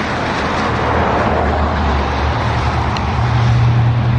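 A car's engine running close by, a steady low hum that steps up in pitch about three seconds in, over a loud wash of road noise.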